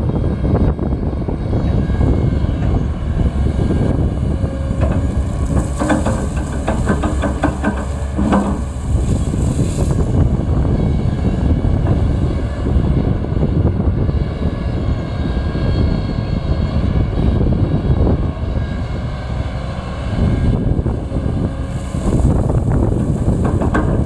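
Diesel engine of heavy earthmoving machinery running steadily under load, with a stretch of rattling and clatter between about six and nine seconds in.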